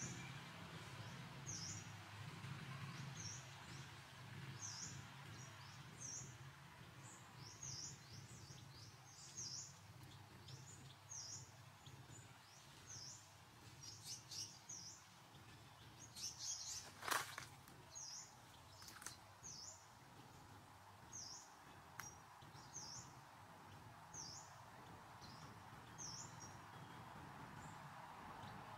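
A bird calling faintly in woodland: a short, high chirp repeated about once a second. A single sharp click stands out about 17 seconds in.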